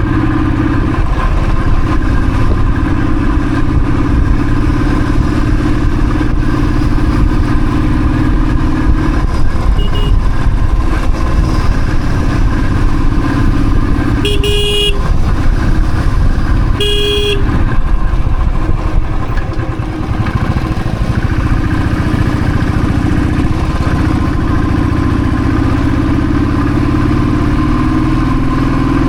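Royal Enfield Thunderbird's single-cylinder engine running steadily while riding, with two short honks of a vehicle horn about halfway through.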